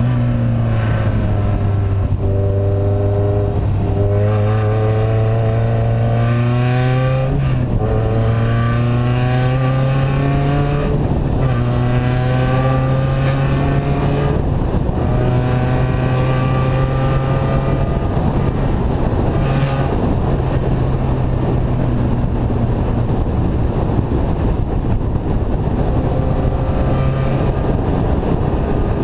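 Engine running with an open, unsilenced exhaust, loud and continuous. The pitch climbs and drops back three times in the first eleven seconds, as if accelerating through the gears, then holds at a steady cruise.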